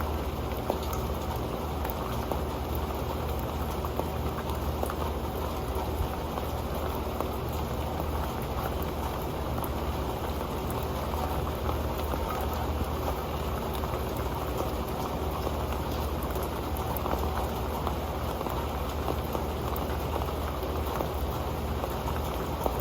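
Rain falling on an old pan: a steady, dense patter of drops with scattered sharper taps.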